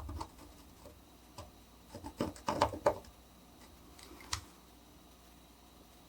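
Light clicks, taps and scrapes from etching tools and a copperplate being handled on a work surface. A cluster of them comes about two to three seconds in, and a single sharp click a little after four seconds.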